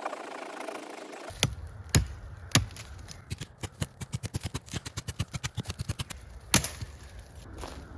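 Dry wooden sticks being snapped and knocked: a few loud single cracks, then a quick run of clicking knocks for about three seconds, and another loud crack near the end.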